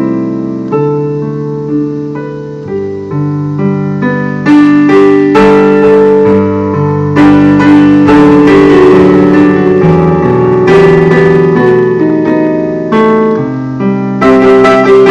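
Solo piano music played on a keyboard, a slow piece in sustained chords. It starts softly and grows louder and fuller from about four and a half seconds in.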